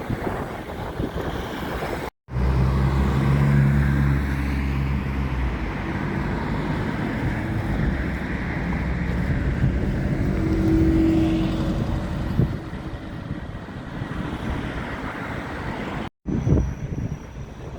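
Road traffic with a heavy vehicle's engine running close by: a strong low hum for a few seconds that then fades into general traffic noise. The sound cuts off abruptly twice.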